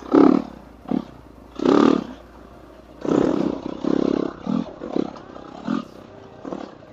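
Dirt bike engine revving in irregular short throttle bursts, the longest about three seconds in.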